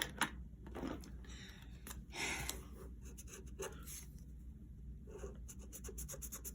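Coloring strokes on paper: a few short, faint scratchy strokes, then a quicker run of short back-and-forth strokes near the end.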